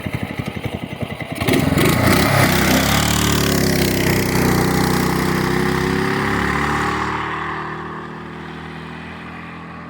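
Homemade trike's engine idling with an even beat, then opened up hard about a second and a half in, running fast and loud at a steady pitch. It fades gradually over the last few seconds as the trike moves off.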